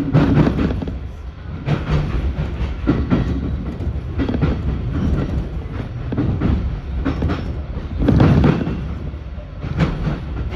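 Train running on rails, a steady rumble with wheels clacking over rail joints at irregular intervals.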